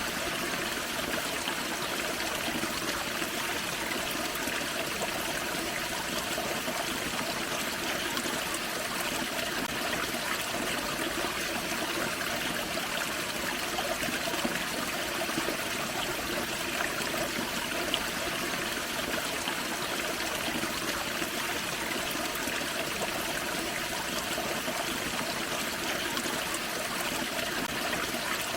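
Forest creek running over a small waterfall: a steady splashing and trickling of water.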